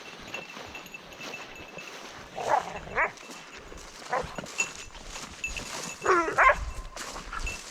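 A dog whining and yelping in short, sliding cries, a few times through. The longest pair comes about six seconds in.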